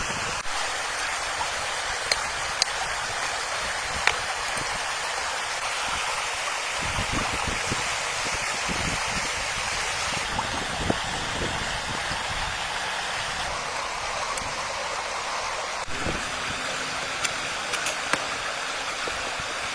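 Steady rush of running water, like a stream, with a few sharp clicks over it.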